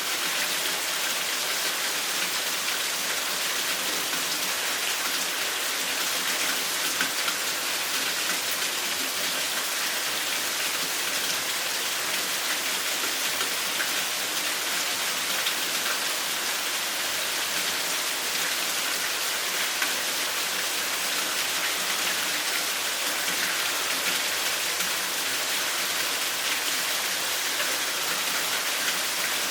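Steady rainfall, a dense even hiss of drops landing on surfaces.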